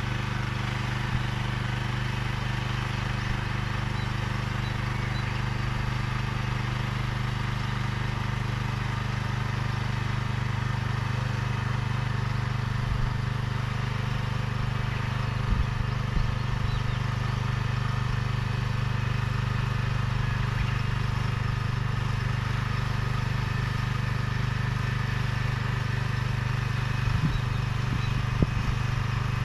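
Engine of a vegetable transplanter running at a steady speed, an even hum with a few light clicks near the end.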